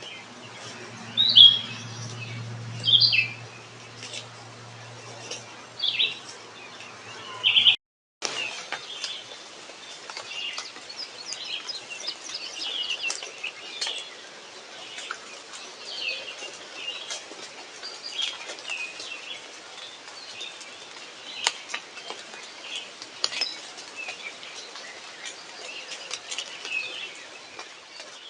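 Wild birds chirping and calling in short, repeated notes, in two stretches with a brief break about eight seconds in. A faint low hum runs under the first stretch.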